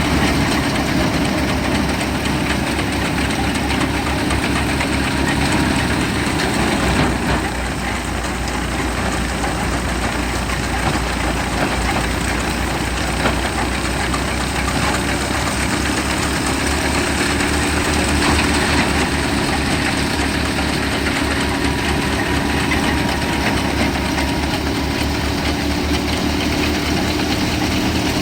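Tractor engine driving a wheat thresher, running steadily under load with a low rhythmic knock, over the continuous dense rushing noise of the threshing machine.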